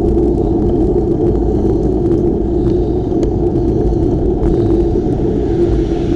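Steady low rumble of wind and road noise from riding a bike, loud and unbroken.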